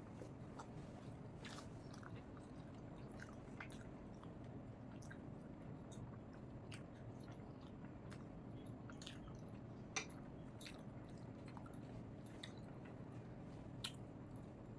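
A person chewing a mouthful of rice and leafy greens, with many small wet mouth clicks over a low steady hum. There are a few sharper clicks about ten seconds in and again near the end.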